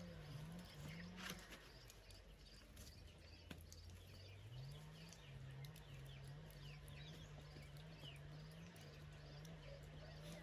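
Faint outdoor background: small birds chirping now and then, with repeated high faint ticks and a low hum underneath.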